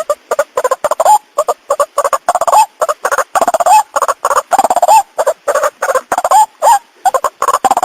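White-breasted waterhen (ruak-ruak) lure call: a fast, unbroken series of harsh, loud notes, several a second, bending up and down in pitch. It starts abruptly.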